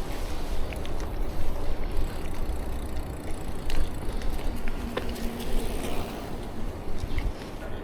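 Uneven low rumble of wind on the microphone and rolling noise from a bicycle being ridden, with a few light clicks.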